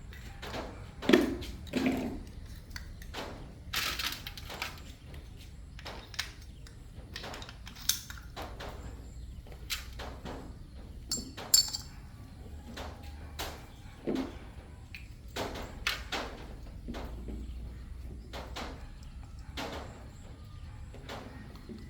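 Irregular knocks, clicks and clinks of metal parts and tools being handled during motorcycle shock absorber repair work, the loudest about a second in and again near the middle, over a low steady hum.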